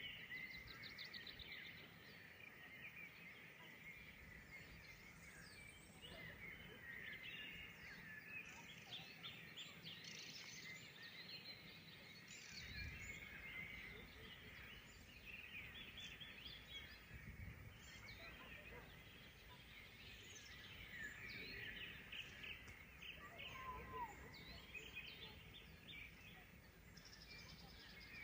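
Several songbirds singing faintly together: overlapping chirps, trills and short whistled phrases. A low rumble comes in about halfway through.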